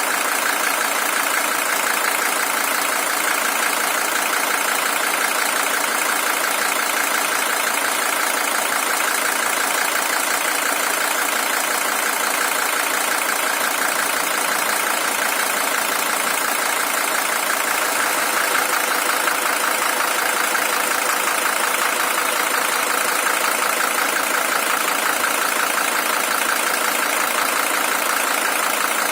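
Mercedes-Benz OM617 five-cylinder diesel engine idling steadily. The engine is the original one, with 620,000 km on it.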